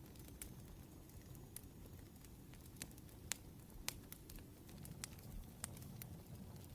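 Wood fire crackling softly: irregular sharp pops and snaps over a low, steady rumble, a few louder pops in the middle.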